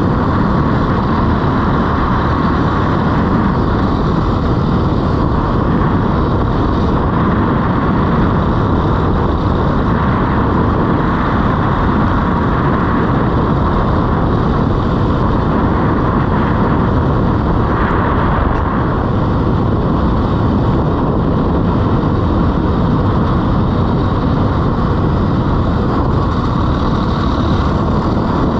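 Dirt bike engine running steadily as the bike is ridden, heard within a dense, even rush of noise.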